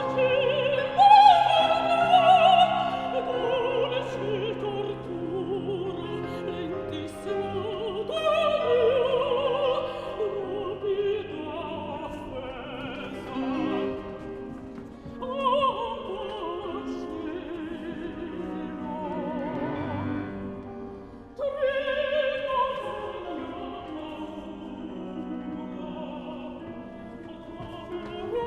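Operatic singing with strong vibrato over a steady instrumental accompaniment, phrase following phrase with short breaks in between.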